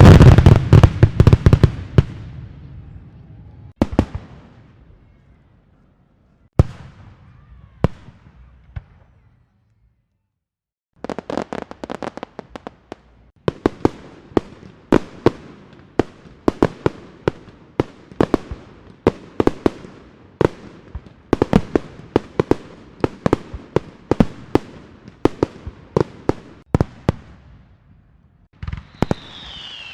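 Fireworks: a loud burst with crackling that dies away over the first two seconds, then a few single bangs. After a short silence, from about eleven seconds in, comes a long run of rapid sharp cracks, like a string of firecrackers going off, that lasts until shortly before the end.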